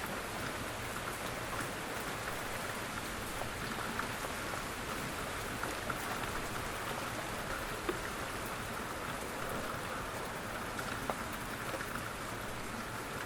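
Steady rain falling on a surface, an even hiss with scattered sharp drips and taps.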